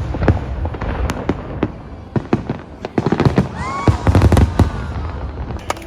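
Fireworks display: a run of sharp bangs and crackling bursts over a low rumble, thickening into a rapid volley about three to four and a half seconds in.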